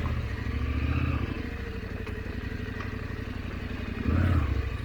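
Big 890 adventure motorcycle's engine at low trail speed: it pulls for about a second, drops back to low revs, then gives a short burst of throttle near the end.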